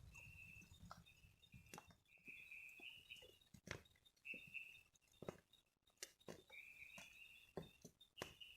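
Faint forest ambience: a short, high buzzy call repeated every second or two, with scattered soft knocks and clicks in between.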